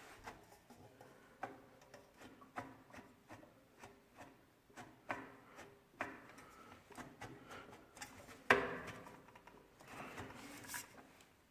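Irregular knocks, taps and rubbing from something being handled, with one much louder knock about eight and a half seconds in.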